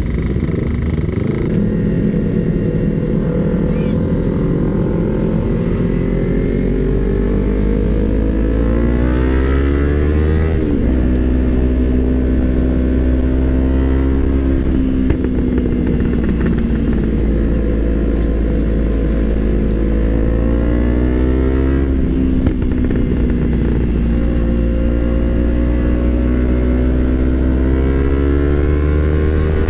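Yamaha R25's parallel-twin engine running under way, its pitch climbing over the first ten seconds, dropping sharply at a gear change about ten seconds in, then rising and easing off gently.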